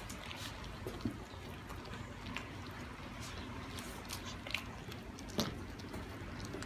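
Lion cubs licking and chewing raw minced meat for the first time: irregular small wet smacks and clicks, with sharper ones about a second in and again about five and a half seconds in.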